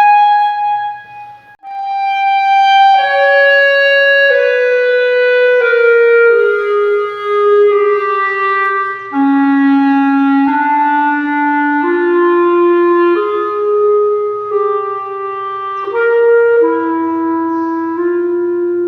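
Solo clarinet playing a slow line of single held notes that step mostly downward, with a short break about a second in.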